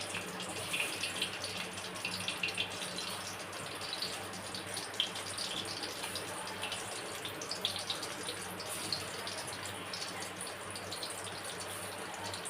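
Chicken pakoras deep-frying in hot oil in a kadai during their second fry: a steady sizzle with many small crackles, busiest in the first few seconds.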